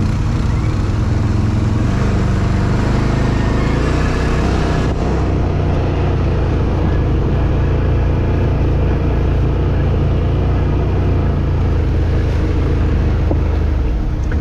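Four-wheel-drive vehicle's engine running steadily while driving, a continuous low drone with road and running noise.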